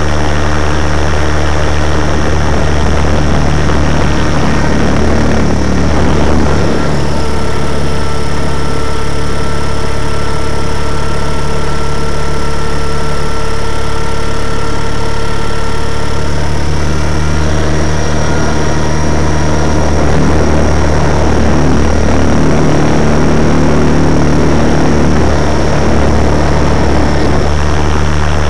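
Radio-controlled model helicopter's motor and rotors running loudly and steadily in flight, heard up close from a camera mounted on the machine, with a higher steady whine joining in partway through and fading out later.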